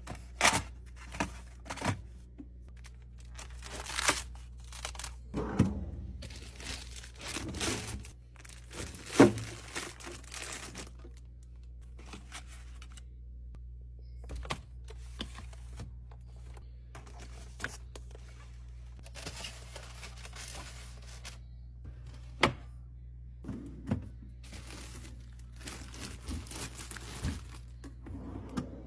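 Food packaging crinkling and tearing, with items and containers set down in a scattered series of clicks and thunks, as a fridge is restocked and organised.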